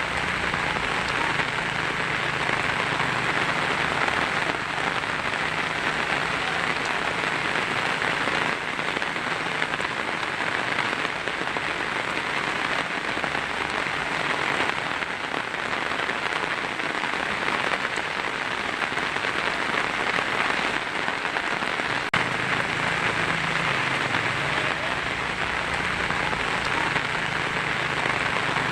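Heavy rain drumming steadily on a tin roof, a dense even patter. A single sharp tick stands out about two-thirds of the way through.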